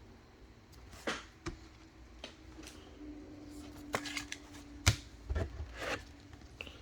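Football trading cards being handled and flipped through: a few separate sharp clicks and light slides of card stock, with a faint steady hum in the middle.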